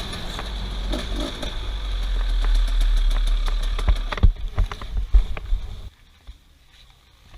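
Off-road vehicle engine running with a low rumble, joined by several sharp knocks after about four seconds. The engine sound cuts off suddenly about six seconds in, leaving only faint noises.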